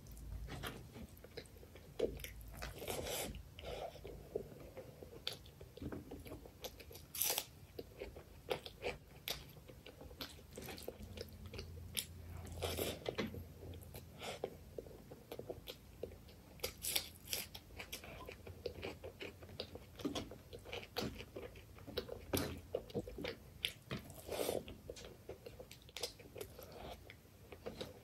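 Close-up chewing and biting of chicken liver curry with rice eaten by hand, with many short wet smacks and clicks from the mouth throughout.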